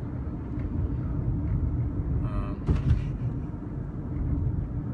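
Steady low rumble of road and engine noise inside a moving car's cabin, with a brief louder jolt about three seconds in.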